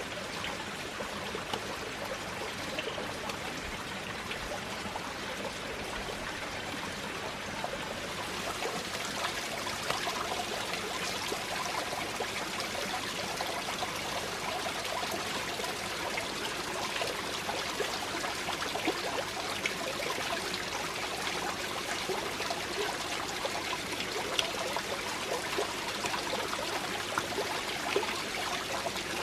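Water running and trickling steadily, with small splashes, a little louder from about eight seconds in.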